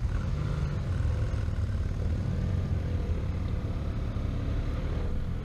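Motorcycle engine running with a steady low rumble, its pitch drifting slightly up and down.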